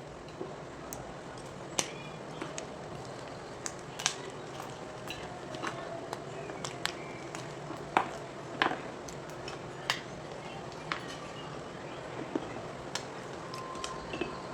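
Blocks of gym chalk being twisted and crunched by hand: irregular sharp cracks and crumbling clicks over a steady hiss, the loudest a pair about eight seconds in.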